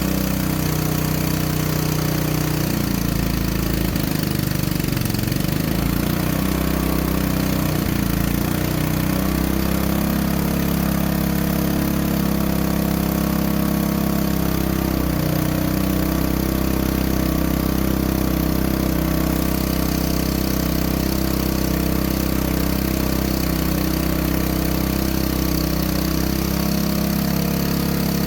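Small petrol engine running steadily, its air drawn through a water bubbler with the choke closed down to raise the vacuum; the engine note wavers unevenly a few seconds in, then settles.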